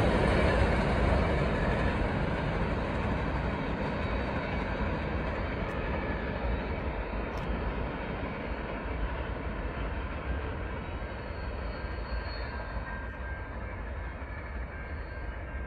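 Freight train cars rolling along the track: a steady rumble of wheels on rail that fades gradually as the train moves away.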